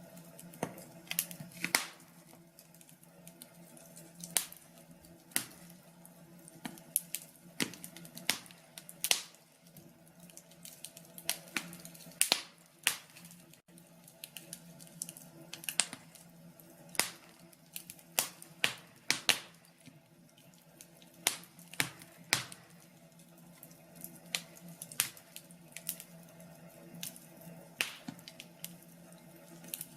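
Wood fire crackling in a fireplace: irregular sharp pops and snaps, some loud, over a faint steady background with a low hum.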